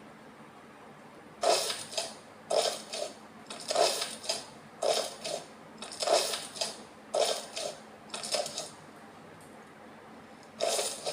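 Slime being squeezed and pressed, giving short wet squelching and popping sounds about once a second, starting a second and a half in.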